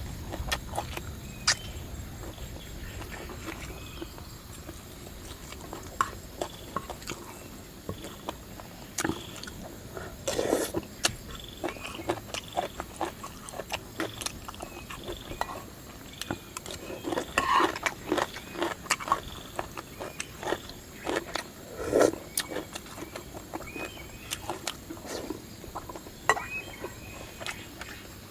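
Person eating at close range: chewing and crunching crisp food, with many short sharp clicks and louder crunches at about ten, seventeen and twenty-two seconds in.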